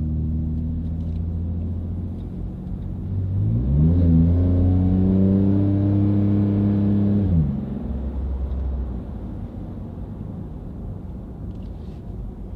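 2017 Chevy Silverado's 4.3-litre V6 running through an MBRP dual performance exhaust, heard from inside the cab while driving. About three seconds in, the engine pitch rises under throttle and the sound gets louder. It holds steady for a few seconds, then drops as the throttle is released and settles into a lower, quieter drone.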